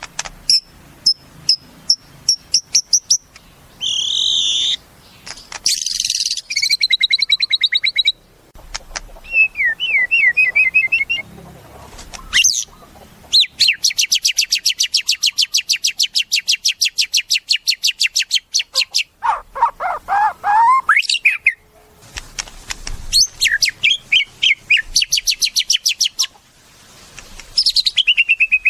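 White-rumped shama (murai batu) singing a varied song of clear whistled phrases, rising glides and fast rattling trills, with one long run of rapidly repeated notes lasting several seconds about halfway through.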